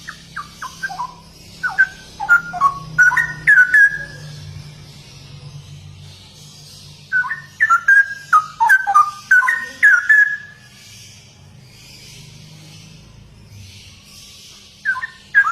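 Straw-headed bulbul (cucak rowo) singing: two bursts of loud, rich whistled phrases of quick rising and falling notes, each lasting a few seconds, with a third burst starting near the end, over a steady high hiss.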